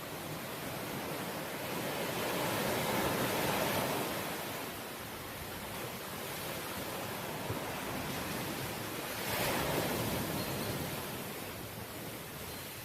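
Sea waves washing onto a shore: a steady hiss of surf that swells twice, once a few seconds in and again later, as waves break and wash up.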